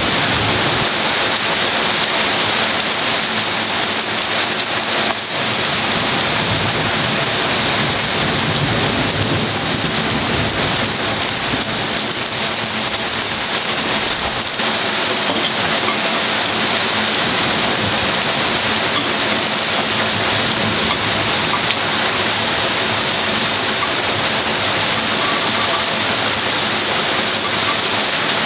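Heavy, driving rain pouring steadily on and around the cabin's corrugated metal porch roof during a thunderstorm.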